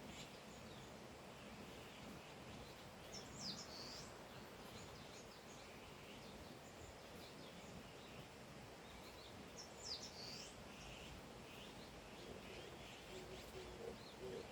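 Birds calling faintly over a steady outdoor hiss: two clearer high calls, one a few seconds in and one about ten seconds in, with scattered softer chirps between.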